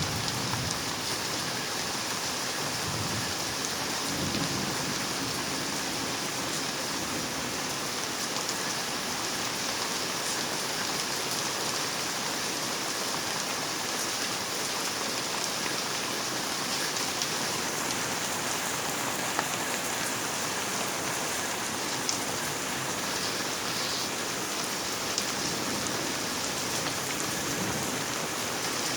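Steady rain falling in a thunderstorm, with a low rumble of thunder in the first few seconds and a few sharp drip ticks later on.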